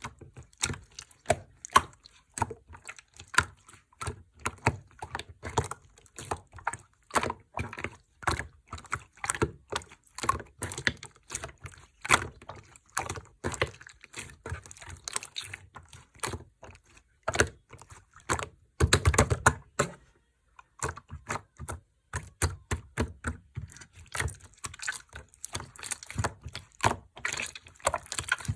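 Slime being squished and mixed by hand, making many irregular clicks and pops, with a dense crackling run about 19 seconds in.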